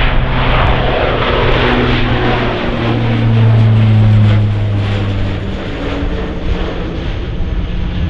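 Jet airliner's engines passing close by: a loud rush with a low hum that peaks about three to five seconds in and then eases off.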